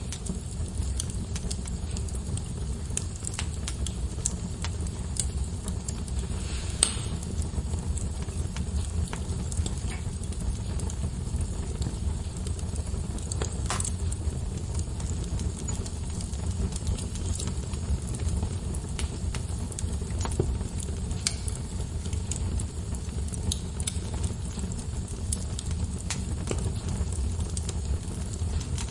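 Log fire burning in a fireplace: a steady low rush of flames with scattered crackles and pops, and two louder pops about 7 and 14 seconds in.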